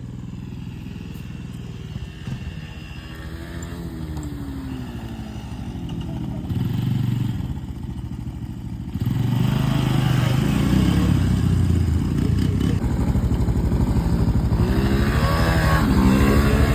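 Small single-cylinder dirt bike engine revving repeatedly, its pitch climbing with the throttle. It gets much louder about nine seconds in, as it comes close.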